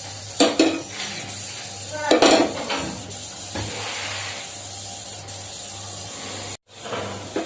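Metal pots and utensils clattering on the stove, a couple of sharp knocks and then a louder rattle, with a faint sizzle of oil heating in the pan.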